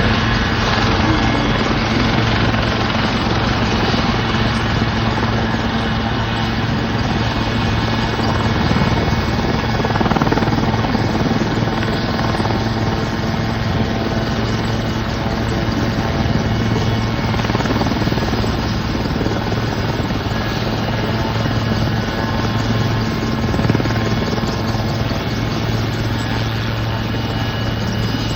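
Helicopter flying a display, its rotor and turbine making a loud, steady drone with a low hum throughout.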